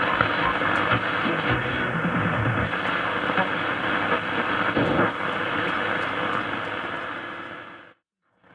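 Grundig Satellit 3400 shortwave receiver playing static on a shortwave band: a steady rushing noise with faint steady whistles and occasional crackles, cutting off abruptly just before the end.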